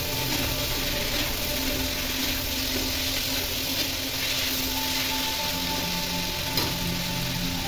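Chickpeas frying with onion and tomato in a non-stick kadai, sizzling as a metal spatula stirs them, under background music with held notes. One sharp click of the spatula about two-thirds of the way through.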